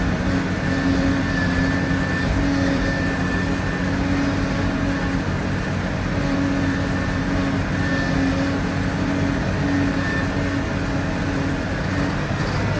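A vehicle engine running steadily: an even low hum with a faint higher tone over it.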